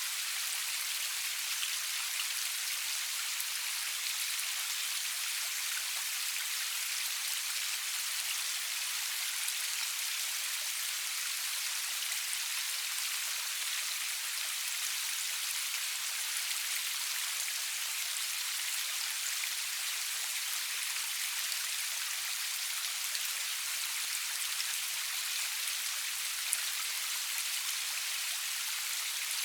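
Steady rain falling, an even hiss with faint tiny droplet ticks, and no thunder.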